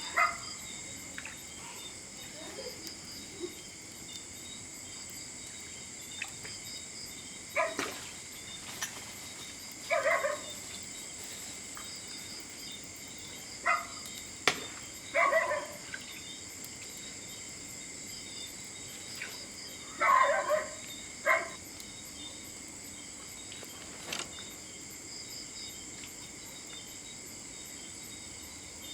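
Crickets chirring steadily at several high pitches. Over them come a few loud, short animal calls, single and in small clusters, and now and then a sharp click.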